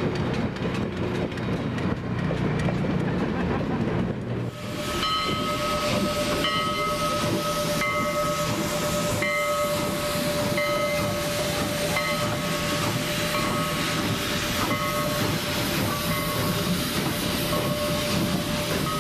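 A train running, with rumble and rhythmic wheel clatter. About four seconds in, the sound changes abruptly to a steady high ringing tone over the running noise, breaking off briefly every second or two.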